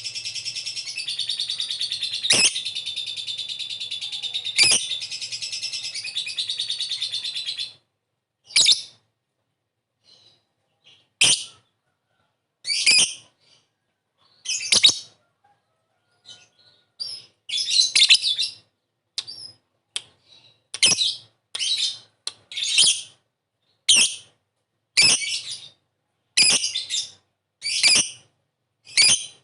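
Lovebird calling: a long, fast, continuous high chattering trill (the 'ngekek'), which cuts off suddenly about eight seconds in. It is followed by a string of short, sharp, high chirps (the 'ngetik'), about one a second and sometimes in quick clusters.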